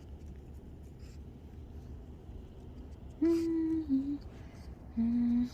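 A woman humming two short notes, the first about three seconds in and lasting about a second, the second near the end, over a low steady rumble.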